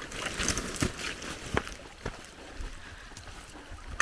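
Footsteps on a forest trail, about one step a second, with rustling in the first second and a half.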